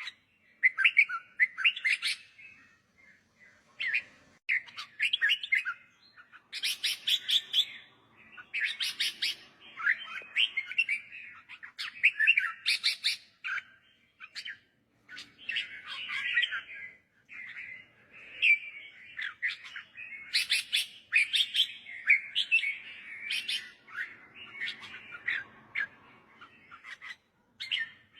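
Red-whiskered bulbul singing: short, bright warbled phrases repeated over and over with brief pauses between them.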